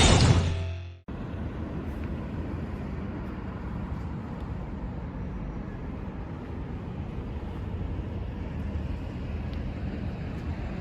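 Rock music cuts off about a second in, then a Yamaha Ténéré 700's parallel-twin engine idles steadily as a low rumble.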